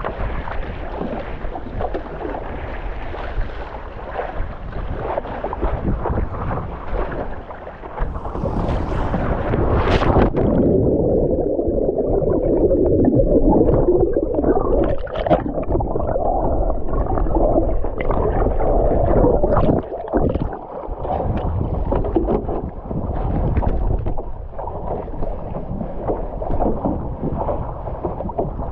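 Sea water rushing and splashing around a stand-up paddleboard on the move. About ten seconds in the sound turns duller and more muffled.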